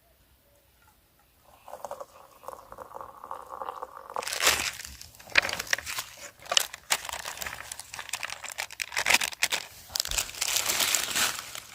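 Sheet material being crumpled and rustled close to the microphone, a dense crinkling with many sharp crackles, starting about four seconds in. Before it comes a soft steady hiss.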